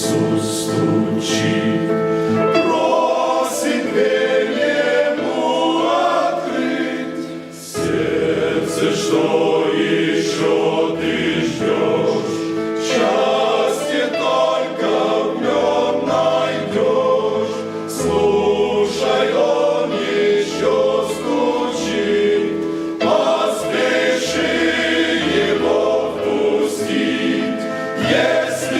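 A group of voices singing a Christian worship song over instrumental accompaniment, with a steady bass and regular percussion strokes.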